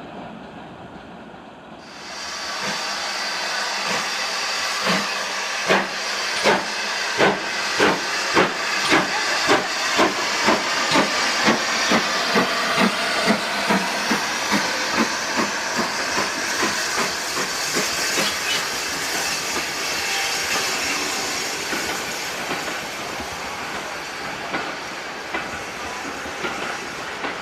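Steam locomotive starting away: a loud hiss of steam begins about two seconds in, then exhaust chuffs at about two a second that quicken and blend into a steady rush as the train gathers speed.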